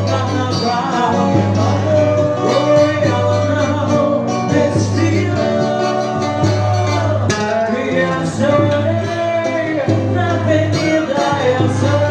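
A small band playing music, with a melody line over guitar and a steady bass.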